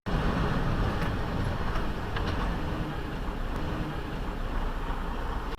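Steady rumble and road noise of a moving vehicle, with a few faint ticks about one to two seconds in.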